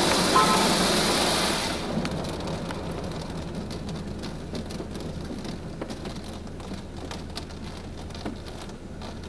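Touchless car wash spray hissing onto the car, heard from inside the cabin, stops about two seconds in; water then drips and patters on the roof and glass in scattered small ticks over a steady low hum.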